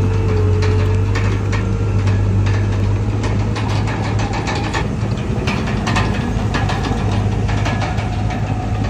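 Komatsu D31PX crawler bulldozer's diesel engine running steadily with a strong low hum, with irregular metallic clatter and knocks throughout.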